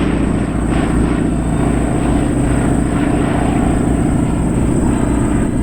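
Radial-engined WWII warbird flying a close pass, its piston engine and propeller running loud and steady.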